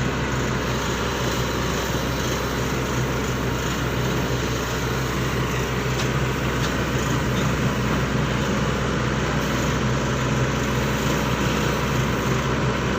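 Heavy diesel engine running steadily, with no change in speed.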